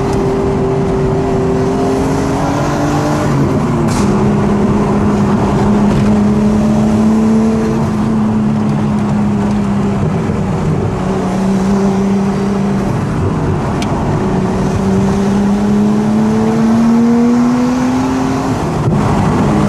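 Nissan RB25DET turbocharged straight-six with a straight-pipe exhaust pulling through the gears, heard from inside the car. Its pitch climbs and then drops sharply about three seconds in and again near the end, with a few short sharp cracks.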